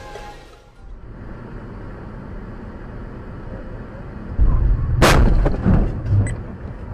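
Car collision: steady road noise, then about four and a half seconds in a sudden heavy low thump, a sharp crash half a second later and several more knocks over the next second.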